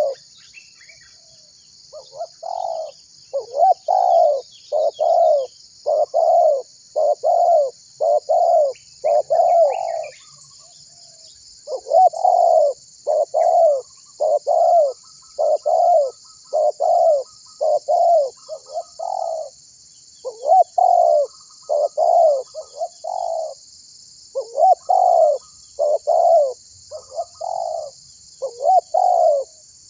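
A spotted dove (tekukur) calling vigorously: runs of short, low cooing notes repeated at about one or two a second, with brief pauses between runs, over a steady high buzz.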